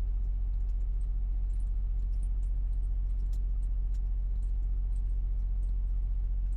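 Steady low drone of an idling semi-truck's diesel engine, with faint light ticks and rattles over it.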